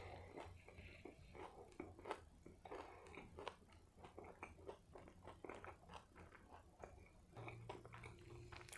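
Close-miked chewing of a burger: soft, irregular wet mouth clicks and small crunches in a steady run of bites.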